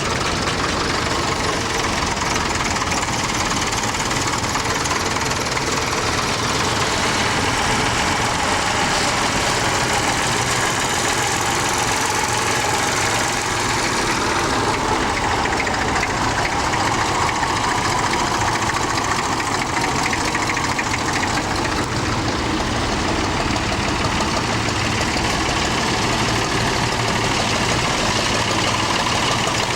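Tractor engine running steadily under way, with a continuous low rumble.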